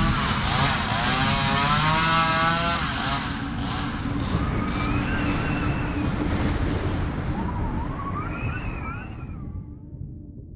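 Horror sound effect: a rough, engine-like rumble with wavering, wailing pitched cries over it, fading out near the end.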